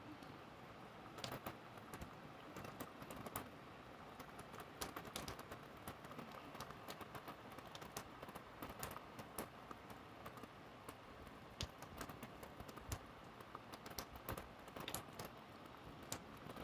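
Rain falling, with many irregular sharp ticks of drops striking a hard surface close by over a faint steady hiss.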